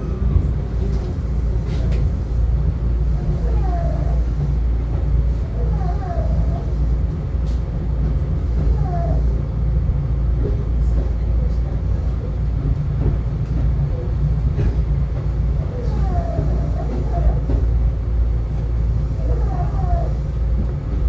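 Tobu Skytree Line commuter train running, heard from inside the carriage: a steady low rumble of wheels and motors. Short higher-pitched sounds come and go over it.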